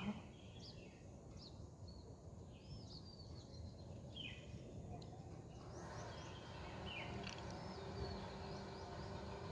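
Faint background noise with scattered short bird chirps and calls throughout.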